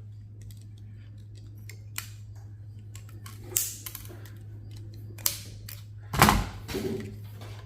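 Scattered sharp metallic clicks and clatter as server hardware is pried and pulled apart by hand, the loudest clatter coming past the middle, over a steady low hum.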